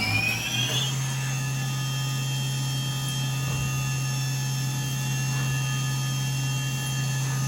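SYIL X7 CNC mill's spindle reaching speed about a second in, its rising whine then holding steady as it runs at speed with a steady hum underneath.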